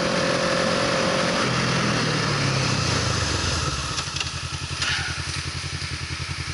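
Motor vehicle engine running. It revs up about a second and a half in, then settles into an even, pulsing beat.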